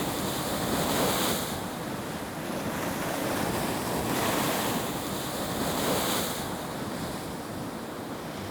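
Ocean surf breaking and washing, with wind buffeting the microphone; the rushing swells and eases several times.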